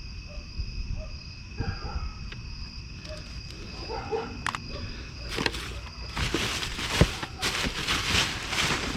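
Plastic bags and trash crinkling and rustling as items are dug through in a dumpster, in scattered handling clicks at first and then a busy crackling from about five seconds in. A steady high-pitched whine sits behind it.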